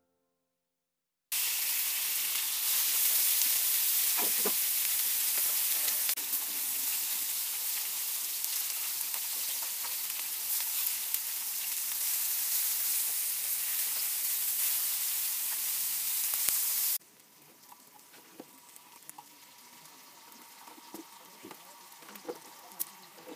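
Chicken wings and potatoes sizzling in hot fat on a steel disc griddle over a wood fire. A loud, steady sizzle starts after about a second of silence, then drops suddenly to a quieter sizzle with scattered small pops about two-thirds of the way through.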